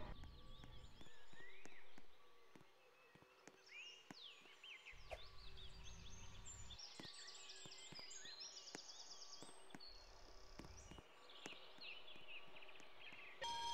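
Faint bird song: short high chirps, quick falling sweeps and trilled phrases, over a low intermittent rumble and scattered clicks.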